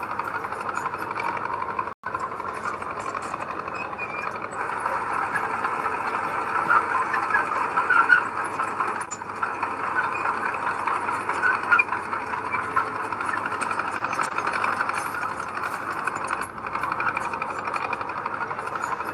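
Diesel engine of heavy earthmoving machinery running steadily under work. The sound cuts out for an instant about two seconds in.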